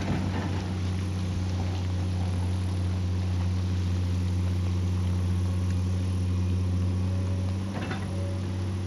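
Excavator engine running at a steady pitch, with a brief knock near the end.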